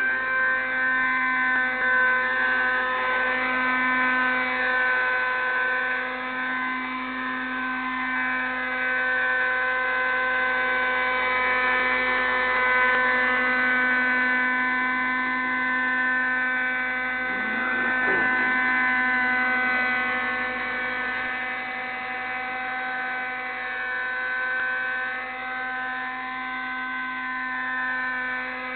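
Raptor 30 radio-controlled helicopter's small nitro glow engine and rotors running with a steady high-pitched whine that wavers slightly in pitch. A brief sweeping sound comes about two-thirds of the way through.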